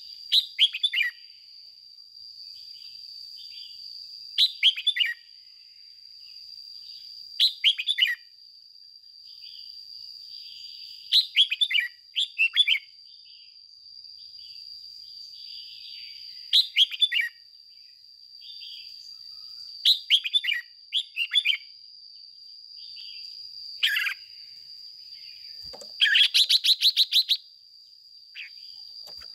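Red-whiskered bulbul singing short, sweeping phrases every few seconds, with a fast rattling run of notes near the end. A steady high-pitched tone runs underneath.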